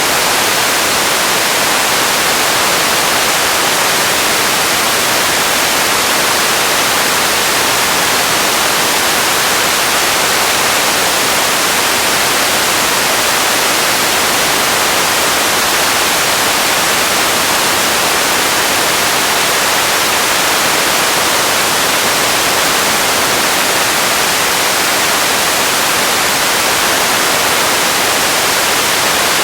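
Radio static: a steady, even hiss of noise, strongest in the high end, with no tones or breaks.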